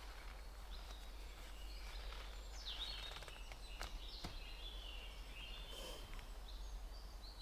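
Woodland birds calling over a faint outdoor hiss: short, repeated, high chirps and gliding notes from about two and a half seconds in. A couple of sharp clicks come at about four seconds.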